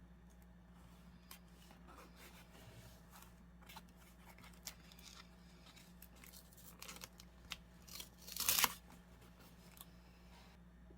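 Paper being worked by hand for scrapbooking: scattered small taps and rustles, with one louder rasp of paper about eight and a half seconds in.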